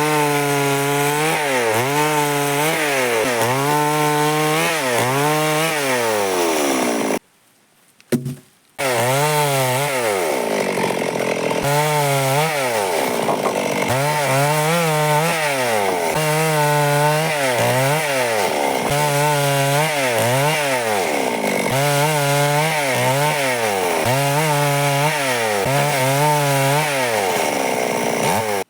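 Stihl two-stroke chainsaw cutting wood under load. Its engine pitch repeatedly dips and recovers, roughly once a second, with a few longer falling glides. It breaks off briefly about seven seconds in, then runs on and stops abruptly at the end.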